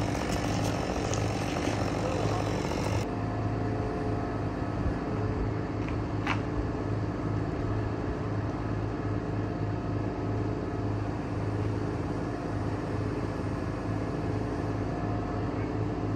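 Lift truck's engine running steadily at a constant speed to power the boom, with a single sharp click about six seconds in.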